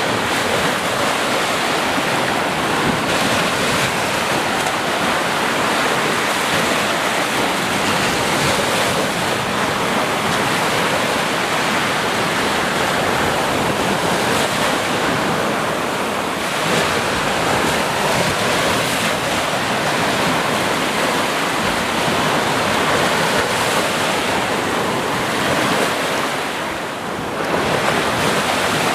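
Sea waves washing continuously onto a shore in a dense, steady wash of surf, dipping briefly near the end before building again.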